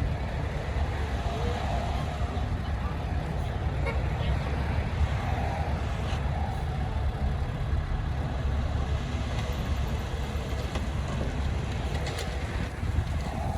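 Diesel engine of heavy earthmoving machinery running steadily under work, a continuous low rumble with a few light clanks on top.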